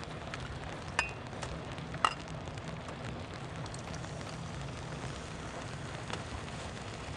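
Steady rain falling, a constant patter, with three light clinks: about a second in, at two seconds, and again near the end.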